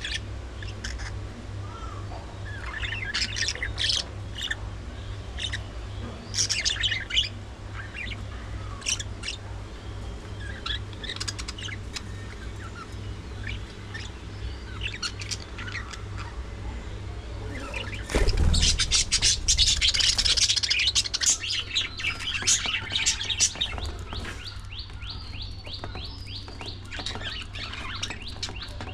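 Flock of budgerigars chirping and chattering, with scattered calls at first, then a louder, denser burst of chatter from about two-thirds of the way in. A steady low hum runs underneath.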